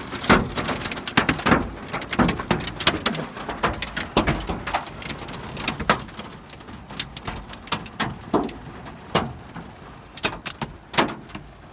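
Hailstones pelting the car's roof and windows, heard from inside the car: a dense clatter of sharp hits that thins out to scattered strikes toward the end.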